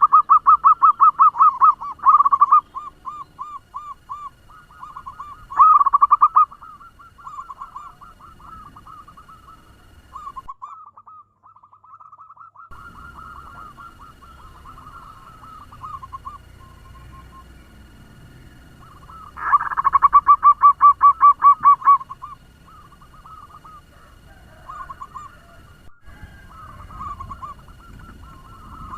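Zebra doves cooing: fast rolling trains of short, evenly repeated notes. The coo is loud for about two seconds at the start, briefly at about six seconds and again at about twenty seconds, with softer, quicker cooing in between.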